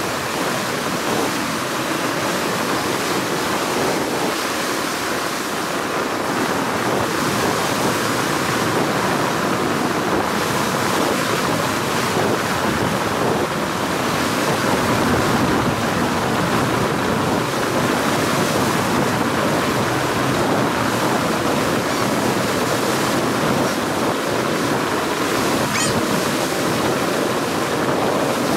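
Steady rushing of wind and water, even and unbroken.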